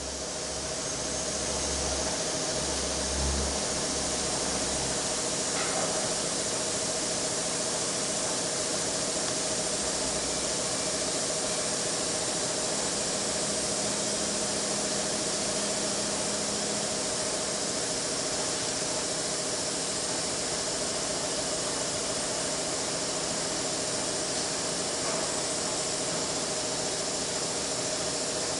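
Machine tool running while machining a steel spindle sleeve: a steady hiss with a constant tone underneath. A low rumble drops away about five seconds in.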